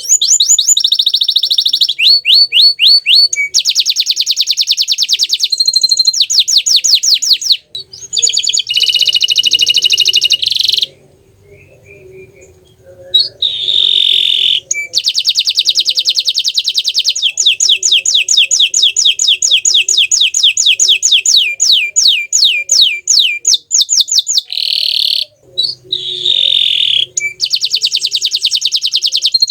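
Green canary singing long, fast trills of rapidly repeated high notes, phrase after phrase, with a short pause about eleven seconds in.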